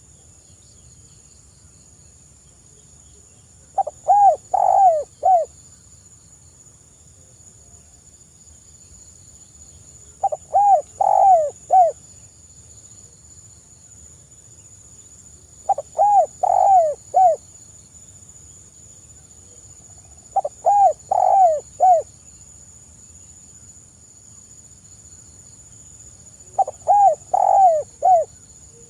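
Spotted dove (tekukur) cooing: five calls about five to six seconds apart, each a short phrase of three or four coos. A faint steady high-pitched tone runs underneath.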